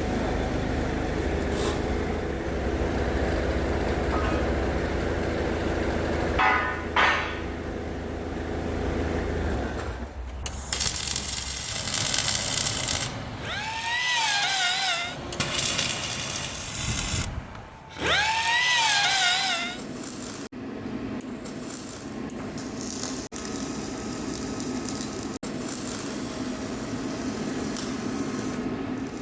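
Workshop power tools working steel plate: a steady machine hum, then loud stretches of metal-cutting or grinding noise, with a tool's whine rising and falling twice around the middle.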